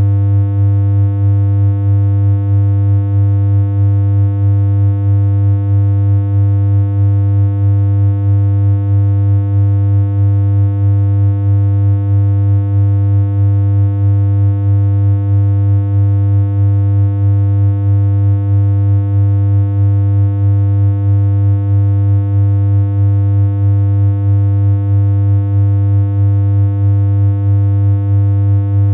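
Synthesized electronic hum: one low, buzzy tone held at a single pitch without change, with a slight regular pulse in loudness.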